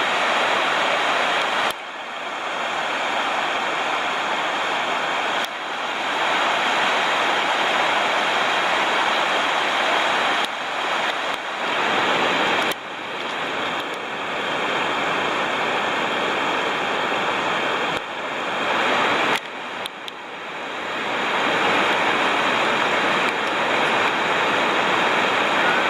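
Waterfall's rushing water, a loud steady roar that drops and jumps back in level suddenly several times.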